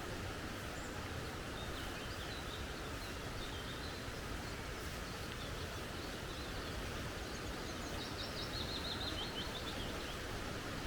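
Steady rush of flowing creek water with small birds calling over it; about eight seconds in, one bird gives a quick run of high notes.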